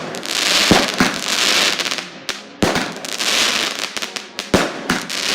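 Fireworks going off: several sharp bangs among long bursts of crackling hiss.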